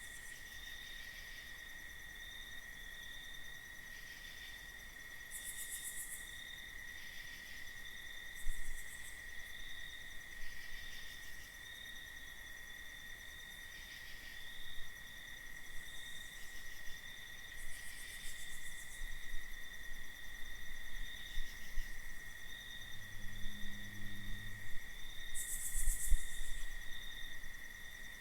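Crickets chirping in a steady, continuous night chorus. Now and then brief high, hissy rasps cut in, the loudest about 26 seconds in, and a faint low hum passes briefly a few seconds before that.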